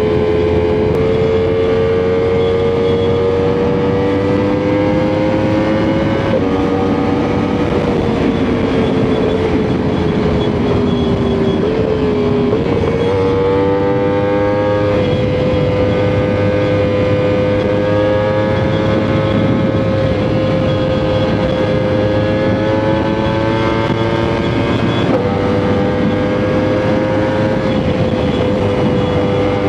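Sport motorcycle engine running at a fairly steady cruising speed, its pitch drifting slowly and stepping a few times, with a dip and recovery about twelve seconds in, over steady wind noise.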